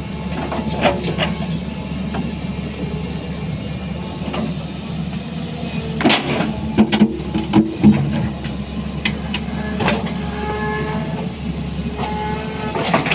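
Hitachi 200 excavator's diesel engine running steadily, with irregular metal clanks and short squeals from the machine working, a cluster of them loudest a little past the middle.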